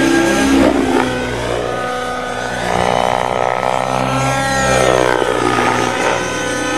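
Engine of a radio-controlled model helicopter running loudly, its pitch sweeping up and down as the throttle changes.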